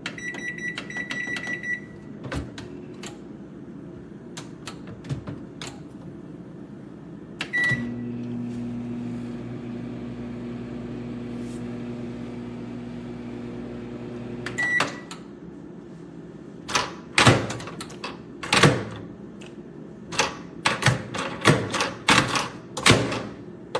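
Emerson MWR7020BL compact microwave oven in use: a quick series of beeps and a few clicks, then a single beep and the oven running with a steady hum for about seven seconds, a beep as it stops, followed by a flurry of loud knocks and clicks.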